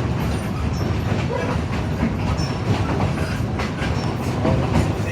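Narrow-gauge passenger train rolling along behind a steam locomotive, its wheels clicking over rail joints over a steady rumble, with a few short squeals.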